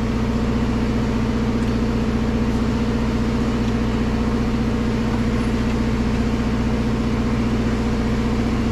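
An engine idling: a steady low hum with several even tones, unchanging throughout.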